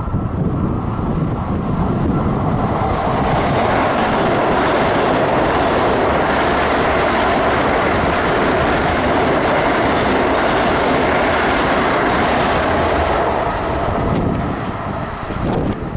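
Long Island Rail Road train passing, a steady loud rush of wheels on rails that eases off in the last couple of seconds.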